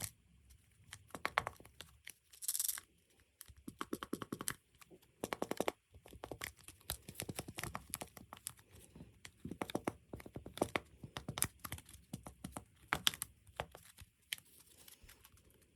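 Handmade paper pop-it toy being pressed and handled: repeated crisp paper clicks and crinkling in quick clusters, with a short rustling burst about two and a half seconds in.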